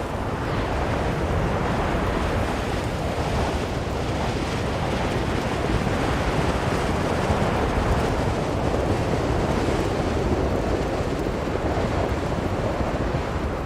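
Blizzard wind blowing steadily, a dense low rushing noise that swells a little toward the middle.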